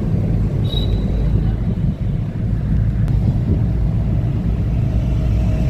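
Steady low rumble of a vehicle, with a brief high beep under a second in and a faint steady tone starting near the end.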